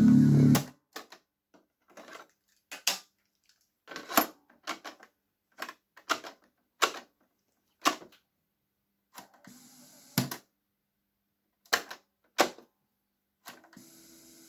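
Music cuts off just under a second in, followed by a string of separate mechanical clicks and clunks, irregularly spaced at roughly one a second: the keys and switches of a JVC PC-30 radio-cassette player being pressed.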